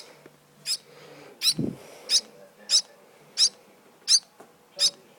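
Baby bird chirping over and over, short high chirps that drop in pitch, about one every 0.7 seconds. A brief low sound comes about a second and a half in.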